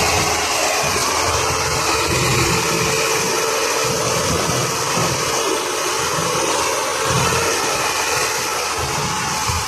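Tractor diesel engine running steadily with an uneven low throb.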